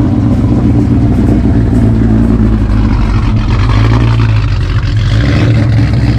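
A car engine running steadily at close range, with a low, even drone.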